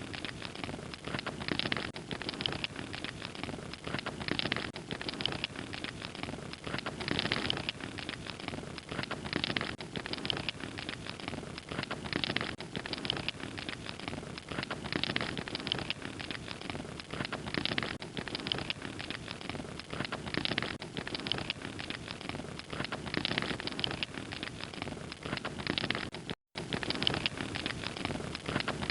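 Log fire crackling steadily, with dense small pops and snaps over a soft hiss. The sound cuts out completely for a split second near the end.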